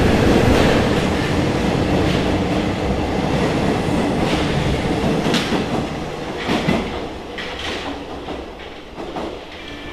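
RATP MF67 metro train running on steel wheels, its rumble fading steadily as it pulls away, with a few separate clacks over rail joints.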